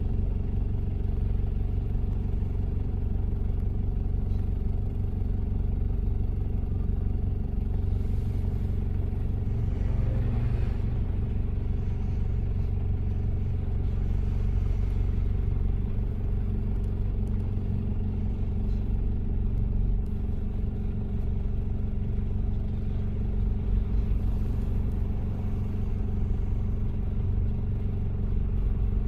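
1993 Toyota Prado's diesel engine running at a steady pace while the vehicle is driven, a low, even drone that holds one pitch throughout.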